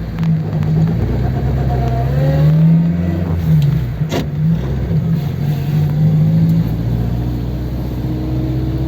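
Ford 100E's 1172 cc side-valve four-cylinder engine running as the car moves at low speed, its pitch rising and dropping a few times with the throttle, with a sharp click about four seconds in.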